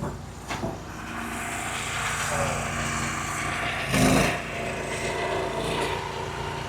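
Engine-driven hydraulic wood splitter running steadily while a log creaks and rasps under the wedge for a few seconds, with a loud crack about four seconds in as the wood gives way.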